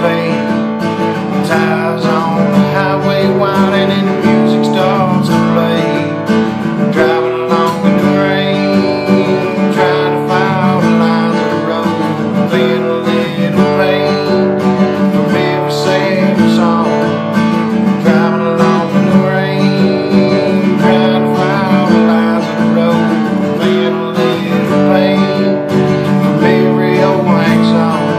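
Acoustic guitar strummed and picked steadily, playing an original song.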